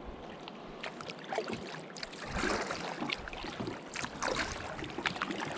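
Kayak paddling: paddle blades dipping and splashing in river water, with several splashy strokes that are loudest in the second half.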